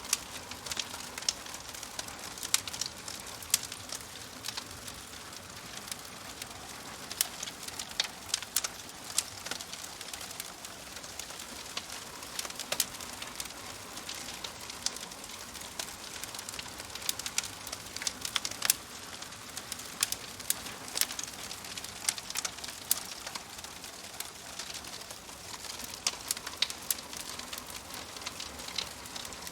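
Wood fire crackling: sharp, irregular pops and snaps, several a second at times, over a steady soft hiss.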